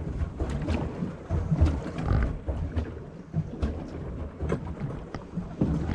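Pedal boat being pedalled, its paddle wheel churning the water with uneven low thumps about twice a second and scattered light clicks.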